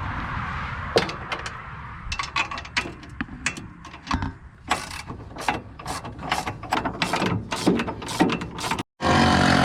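Hand socket ratchet clicking in irregular runs as bolts on the sawmill's shipping brackets are worked loose. Near the end a steadier mechanical whir takes over.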